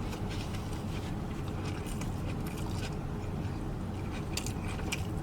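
Close-up chewing of a jerk turkey sub sandwich: wet mouth clicks and smacks scattered through, over a steady low hum.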